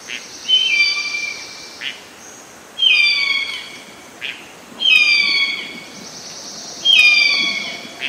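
A bird calling loudly, four falling whistled calls about two seconds apart, with short sharp notes between them, over a steady high-pitched hiss.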